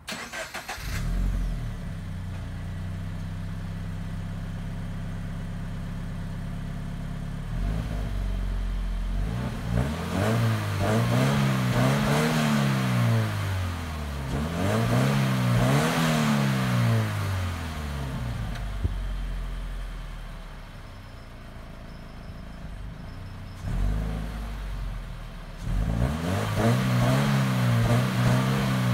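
Scion FR-S's 2.0-litre flat-four boxer engine on its stock exhaust, idling steadily and then revved up and down several times, with a quieter idle spell in the middle and more revs near the end.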